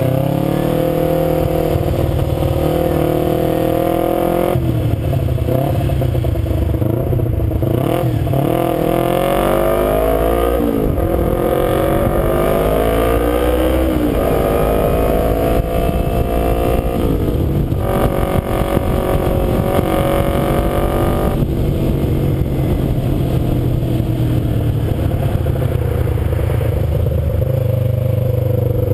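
Kawasaki Ninja 250's parallel-twin engine under way, its pitch climbing and then dropping at each upshift a few times in the middle of the stretch, then holding steady at cruise. A low wind rumble runs underneath.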